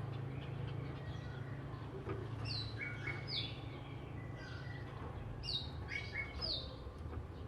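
Oriental magpie-robin singing: short, high notes that sweep down in pitch, coming in two clusters, over a steady low hum.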